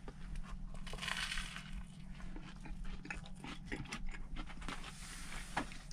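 Close-up biting and chewing of a sandwich on air-fried toast, with a crunch of the toast about a second in and small crunching clicks as it is chewed.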